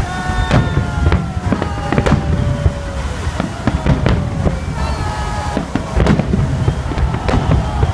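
Aerial firework shells bursting overhead, a loud irregular series of sharp bangs about two a second over a steady low rumble.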